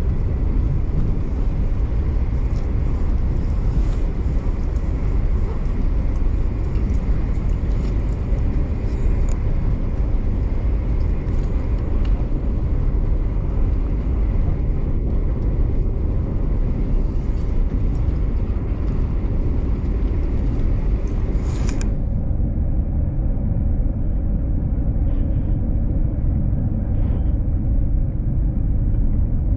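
V/Line passenger train running: a steady low rumble with a hiss above it. About three-quarters of the way through, the hiss cuts off suddenly, leaving the low rumble.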